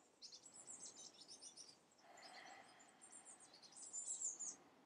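Faint birdsong: many quick, high chirps and twitters from small birds, louder briefly near the end.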